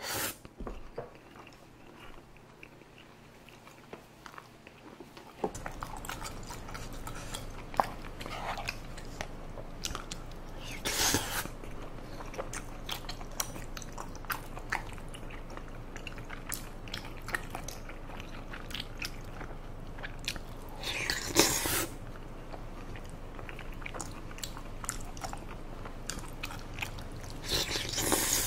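Close-up mouth sounds of a person eating spicy tteokbokki: biting and chewing soft, chewy rice cakes in thick sauce, with small wet clicks throughout. Three louder, longer mouth noises come about ten seconds apart.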